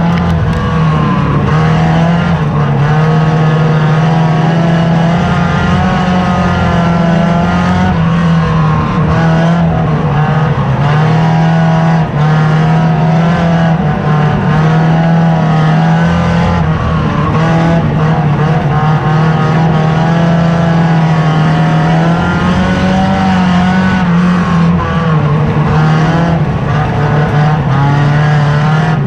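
Stripped-out banger racing car's engine running hard, heard from inside its cabin, its pitch wavering up and down as the throttle is worked.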